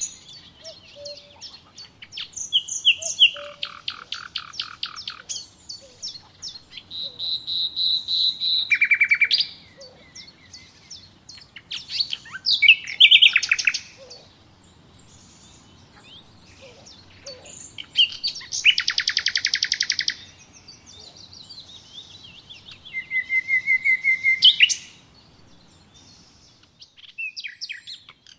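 Songbirds singing: loud, rapid, high-pitched trilled phrases of a second or two each, coming every few seconds, with quieter chirps and calls between them.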